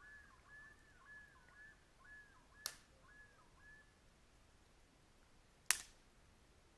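A bird calling in the distance: a run of short, faint arching notes, about two a second, that stop about four seconds in. Two sharp clicks, about three seconds apart, are the loudest sounds.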